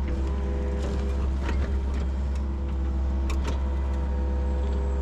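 Yanmar SV40 mini excavator's diesel engine running steadily with economy mode switched off, its hydraulics working, with several sharp knocks and clicks along the way.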